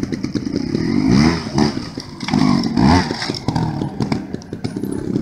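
Dirt bike engine revving hard in two rising bursts, about a second in and again around two and a half seconds, with rapid clattering between them.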